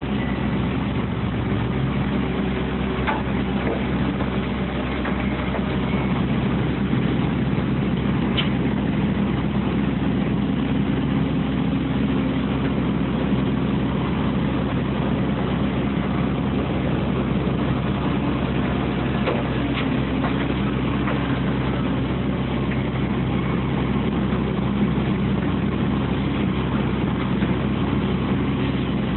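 Heavy diesel engines of a CAT 365CL excavator and a CAT 740B articulated haul truck running steadily during loading, with a few brief sharp knocks.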